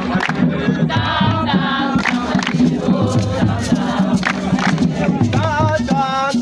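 A group of voices singing together, chant-like, over a steady rhythmic beat with sharp percussive strokes.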